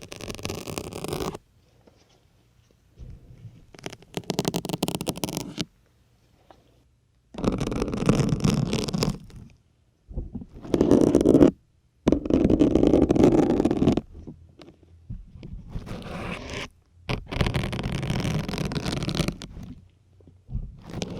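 Plastic syringe needles pushed into and drawn out of a foam sponge, giving a series of separate crackling, scraping bursts of about one to two seconds each, with short silences between.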